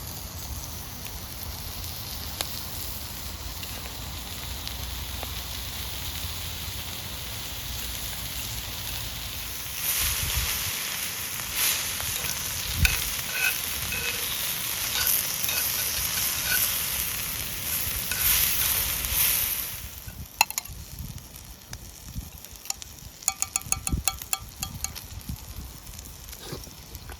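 Food sizzling as it fries, growing louder about ten seconds in and dying down about two-thirds of the way through, followed by a run of light clicks and taps.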